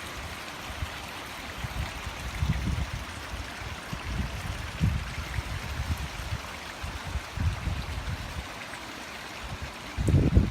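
Strong wind blowing across the microphone: a steady rushing hiss with gusts buffeting it as irregular low rumbles, the heaviest near the end.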